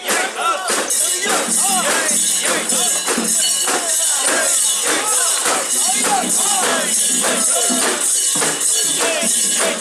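Mikoshi bearers chanting together in a steady rhythm, with a sharp metallic jingle on each quick beat.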